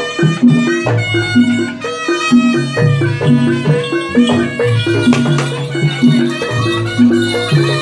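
Live jaranan music from a traditional Javanese ensemble: percussion and a repeating low pitched pattern, with a melody line on top, played at a steady, driving pulse.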